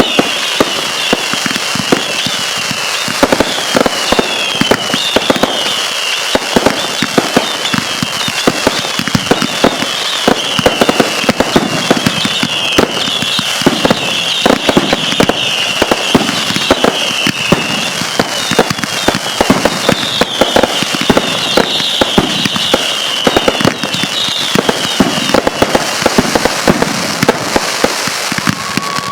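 Fireworks going off in a dense, continuous run of sharp pops and crackles, with a high-pitched chirping whistle repeating over them for most of the stretch, fading out a few seconds before the end.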